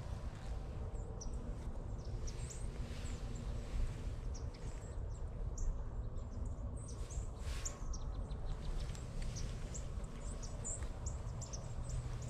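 Small birds chirping: scattered short, high chirps over a steady low background rumble.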